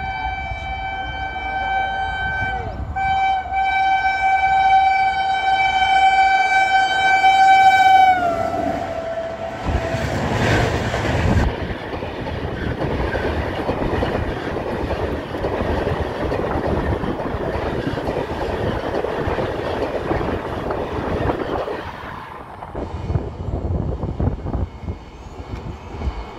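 WAP-7 electric locomotive's horn sounding one long steady blast, with a short break about three seconds in, that drops in pitch as the locomotive passes at about 100 km/h. The express's coaches then rush past with heavy wheel-and-rail noise, which falls away about four seconds before the end.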